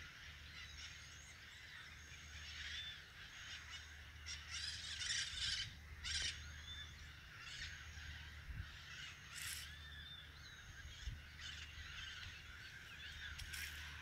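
Birds calling faintly: repeated short, arching chirps, with several brief bursts of hiss in between.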